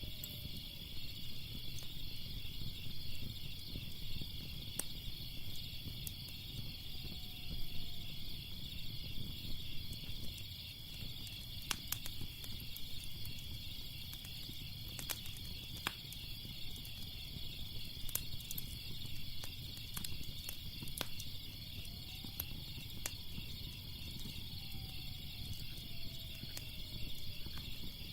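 Crickets chirping in a steady, pulsing high chorus over a crackling fire: a low rumble of flames with sharp pops every second or two.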